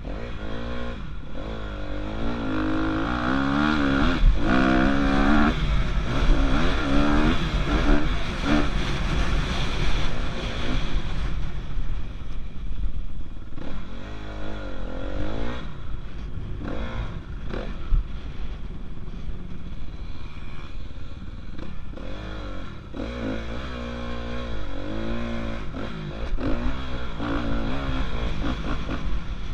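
Dirt bike engine revving up and down through the throttle, its pitch climbing and dropping again and again as it is ridden around a motocross track, over a heavy low rumble.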